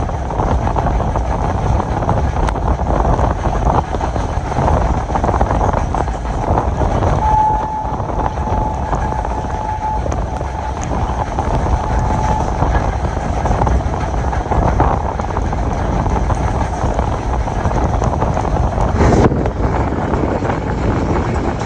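Passenger train running at speed, heard from on board: a steady low rumble with wind and track noise. A faint thin tone holds for about five seconds in the middle, and there is a short sharp knock near the end.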